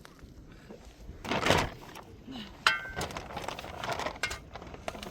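Kitchenware being handled: a short rustling scrape, then a sharp clink that rings briefly about two and a half seconds in, followed by lighter knocks and clinks.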